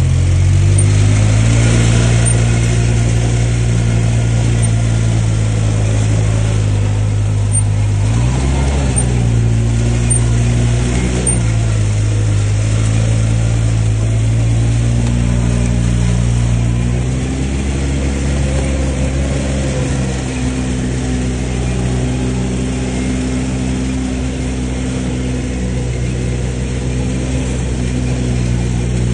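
ATV engine running at a fairly steady throttle, its pitch dipping and rising briefly about eight to eleven seconds in and settling into a slightly different steady note a little past halfway.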